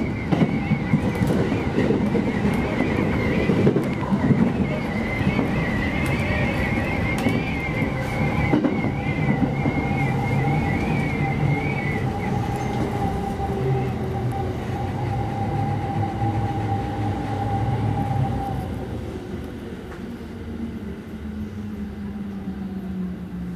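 JR Musashino Line electric train braking into a station, heard from the front cab: rumbling running noise with a wavering high squeal for the first half, then a whine that slides down in pitch as the train slows. It grows quieter after about 18 seconds as the train comes nearly to a stop at the platform.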